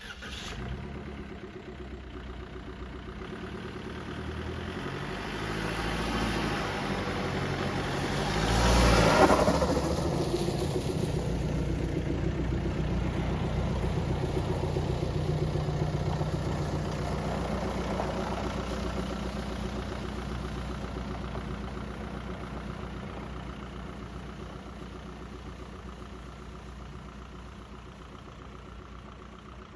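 Jeep TJ Wrangler's swapped-in VW 1.9 TDI four-cylinder turbodiesel running as the Jeep drives off. It grows louder to a peak about nine seconds in, then slowly fades as it pulls away.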